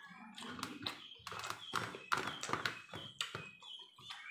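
Close-up chewing and lip-smacking from someone eating rice and curry by hand, heard as a string of irregular wet clicks, with fingers working the rice on a metal plate.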